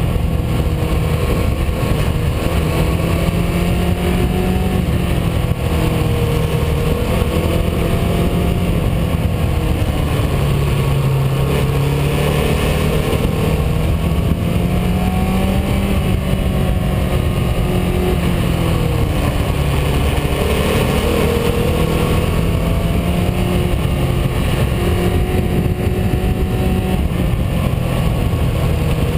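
Car engine and road noise while driving, the engine note rising and falling gently as the speed changes.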